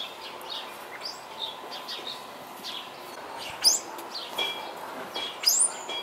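Small birds chirping and twittering: short high notes scattered throughout, with a couple of sharper calls about three and a half and five and a half seconds in.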